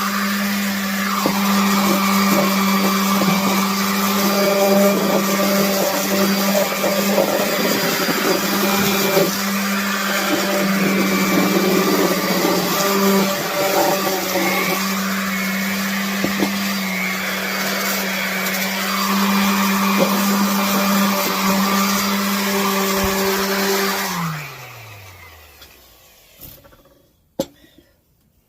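Electric power sander running steadily on wood. About 24 seconds in it is switched off and its motor winds down with a falling pitch, followed by a few light knocks.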